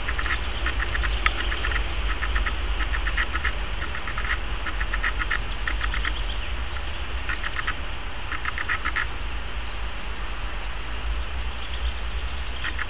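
A bird calling in short bursts of rapid chattering pulses, over and over, falling silent about nine seconds in with one more burst near the end, over a steady low rumble.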